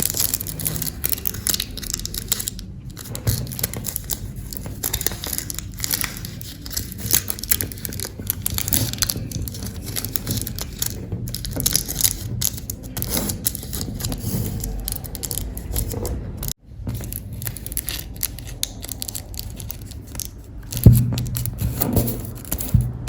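Aluminium foil being folded and creased by hand: a continuous irregular crinkling and crackling, with a brief break about two-thirds through.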